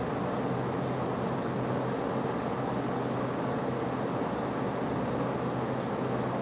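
Steady, unchanging mechanical hum with a low drone, like a motor or fan running.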